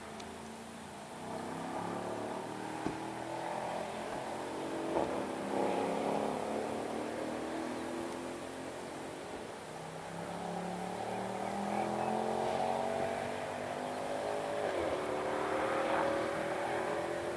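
Mercedes-AMG V8 engine revving up and down repeatedly under hard acceleration and wheelspin, with two brief sharp cracks in the first five seconds.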